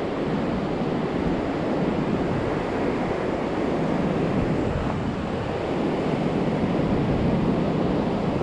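Pacific Ocean surf with a steady, loud roar of waves breaking on the beach, with some wind buffeting the microphone.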